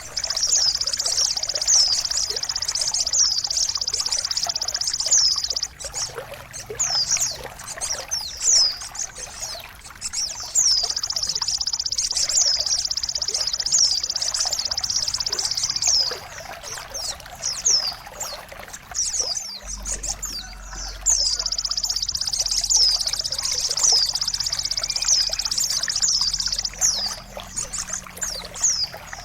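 Trickling, pouring water with high, rapid bird song over it. Long continuous trills alternate with runs of quick falling chirps, as in a therapy and mastering track played to cage songbirds that have gone quiet. A low hum comes in about two-thirds of the way through.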